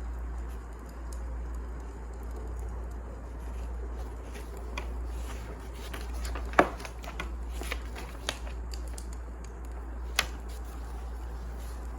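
Wood fire crackling: scattered sharp pops over a steady low rumble. The loudest pop comes about six and a half seconds in, with smaller ones near eight and ten seconds.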